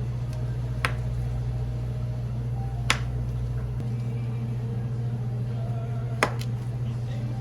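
A steady low hum runs throughout, and four sharp clicks or taps stand out from it: one about a second in, one about three seconds in, and two close together near the end.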